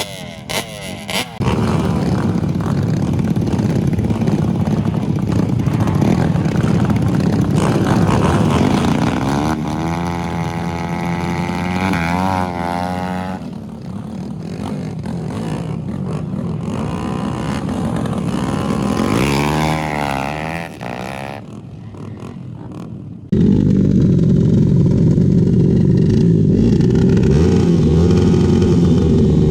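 Racing motorcycle engines at full throttle on a drag strip, rising in pitch through the gears and fading. About three-quarters of the way through, the sound switches abruptly to another loud, steady engine at close range.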